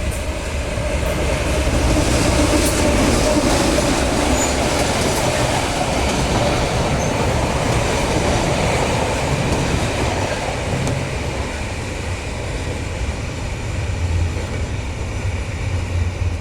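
Diesel-electric freight locomotive and wagons rolling past: a steady heavy rumble with wheels clattering on the rails, loudest a few seconds in.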